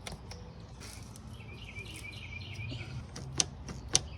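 Quiet background with a faint low hum and a short run of bird chirps about halfway through, then two sharp clicks close together near the end.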